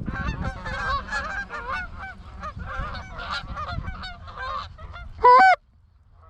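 A flock of geese honking, many overlapping calls at once, then one much louder single honk close by about five seconds in.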